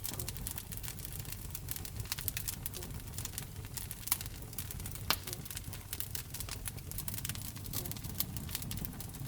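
Wood fire burning in a fireplace: irregular sharp crackles and pops over a steady low rumble of the flames, with a louder pop about four and five seconds in.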